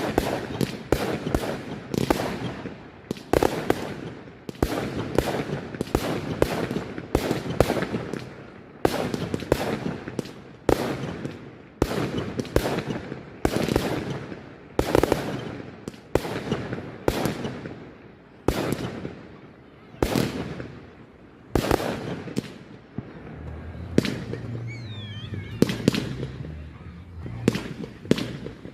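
Firework display: a rapid barrage of aerial shell bursts and crackles, several bangs a second. The bangs thin out near the end.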